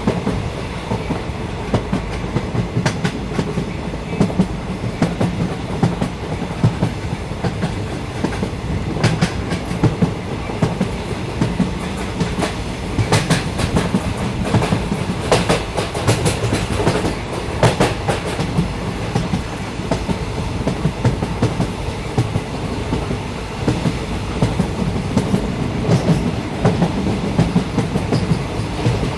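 Train running along the track, heard on board: a steady low rumble with irregular clicks of the wheels over rail joints, clustering in the middle.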